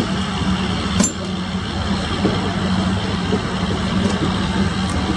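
Passenger train running at speed on a curve, heard from aboard one of its coaches: a steady heavy rumble of wheels on the rails, with one sharp clank about a second in.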